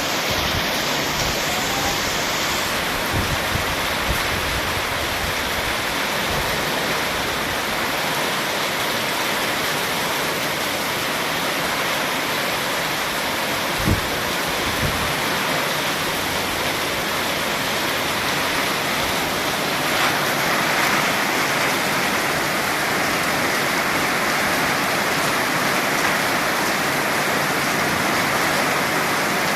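Heavy downpour: a steady dense hiss of pouring rain that grows slightly louder about two-thirds of the way in. A few soft low bumps sound under it, the clearest about halfway.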